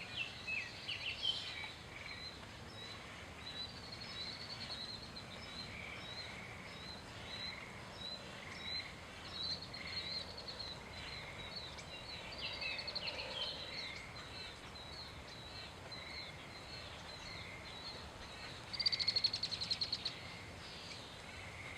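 Songbirds singing and calling over a faint steady background hiss: many short, repeated high chirps and song phrases, with a fast trill near the end.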